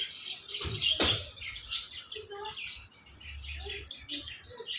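Indian ringneck parrot chattering in quick short chirps and squeaks, with one sharp click about a second in.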